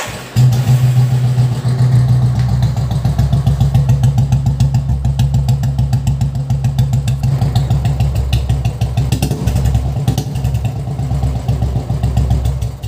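Royal Enfield Classic 350 single-cylinder engine starting on the electric starter about half a second in, then idling steadily with an even exhaust beat from its chrome silencer.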